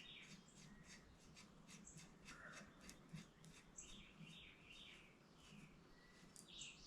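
Near silence, with faint bird chirps in the background and a few faint clicks.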